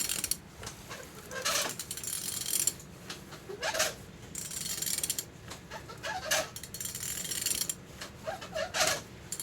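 Used car engine being turned over by hand with a ratchet wrench on the crankshaft: about six strokes of ratchet clicking and metal scraping, with short squeaks. The engine turns freely, a sign that it is not seized.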